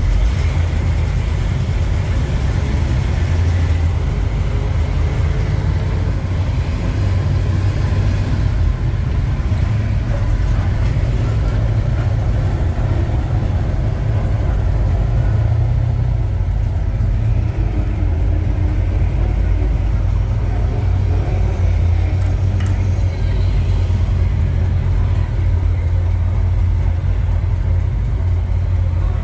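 A 1948 Ford F5 bus driving along, its engine and drivetrain giving a loud, steady, deep rumble with road noise.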